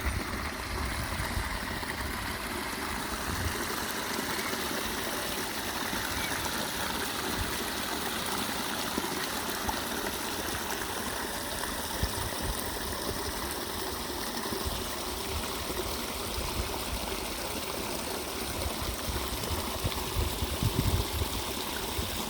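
Steady rushing of flowing water, with irregular low rumbles underneath.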